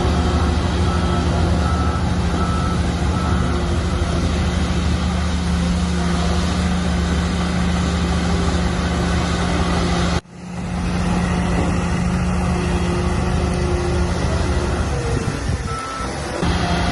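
Heavy diesel earthmoving machinery running steadily with a deep rumble, while a reversing alarm beeps in a regular series during the first few seconds. The sound cuts out abruptly for a moment about ten seconds in, then the engines return, and a single beep sounds near the end.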